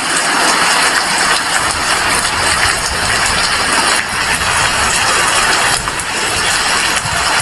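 Heavy rain falling steadily, a dense even hiss that dips briefly a few times.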